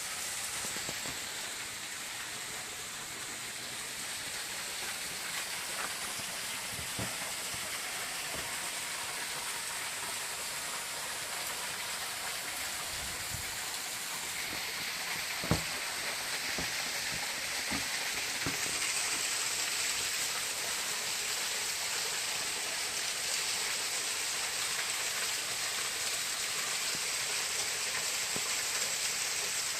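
Steady hiss of falling water, with a single short knock about fifteen seconds in.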